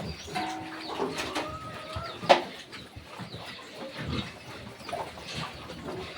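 Backyard farm animals calling in short held calls, with a sharp knock a little over two seconds in.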